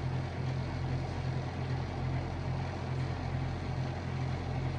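Steady low mechanical hum, like a motor or blower running, with a deep tone that swells and eases slightly.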